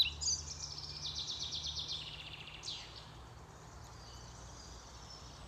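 A songbird singing a rapid, high trill of repeated notes for about two and a half seconds, then a short falling note and faint high calls. A low steady hum runs underneath.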